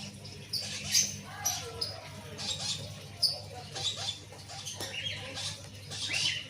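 Conure making soft, short high squeaks and chirps with small rustles, scattered irregularly, over a low steady hum.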